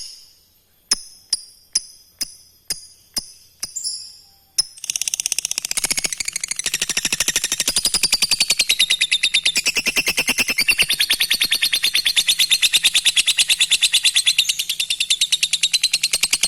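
Lovebird singing: separate sharp, high chirps about two a second, then, about five seconds in, a long, rapid chattering trill (the lovebird's 'ngekek') that runs on unbroken for over ten seconds.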